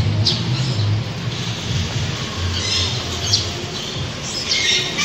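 Caged birds in an aviary squawking: a short call near the start, a run of chattering calls in the middle, and a louder burst of calls near the end, over a low rumble.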